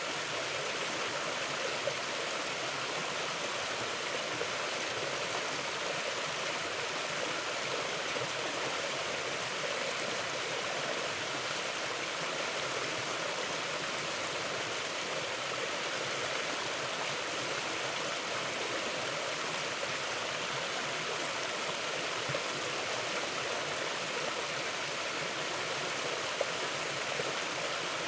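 Stream water flowing over rocks, a steady even rushing with no let-up.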